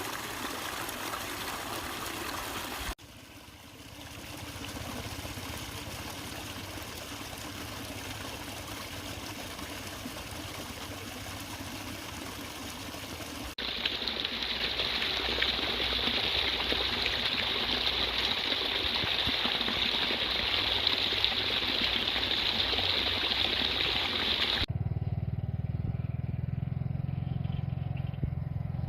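Floodwater rushing over a washed-out road, in several clips cut together; the rush is loudest in the middle stretch. Near the end it cuts to a low, steady engine hum.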